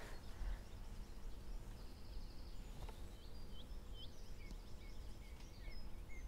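Small birds chirping: a run of short, quick, hooked chirps starting about halfway through, over a quiet steady low rumble of room noise.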